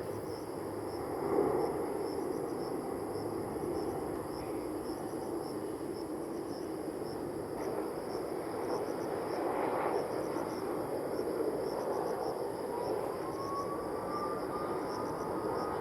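Jet airliner engines at a distance: a steady rumble, with a rising whine coming in about thirteen seconds in.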